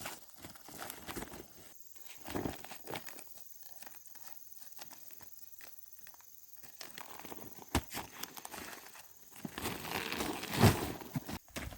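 Dry corn plants rustling and crackling with irregular snaps, the sound of ears being handled and picked among dry stalks and leaves. There is a sharp snap partway through and a louder thump near the end.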